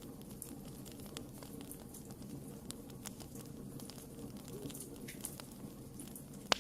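Wood fire burning: irregular sharp crackles and pops over a steady low rumble of flames, with one louder pop near the end.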